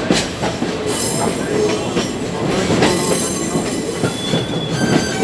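Sagano trolley train running on the rails, heard from inside the carriage: a steady rumble with a few sharp clacks from the wheels over rail joints and brief high wheel squeals, one about four seconds in and another near the end.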